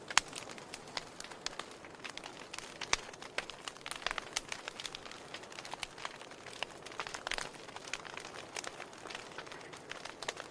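Wood campfire crackling, with many irregular sharp pops and snaps over a soft hiss.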